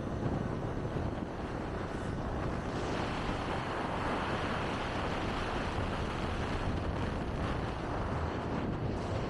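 Wind rushing over the microphone mixed with road and vehicle noise while riding a motorcycle, swelling a little about a third of the way through.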